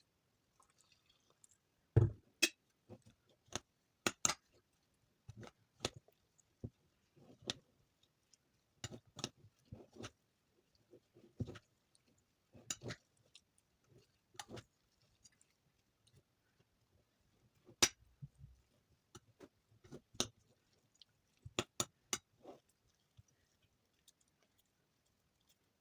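Irregular crisp clicks, taps and crunches of soap scraps and shavings being handled and pressed together by hand, with a heavier thump about two seconds in.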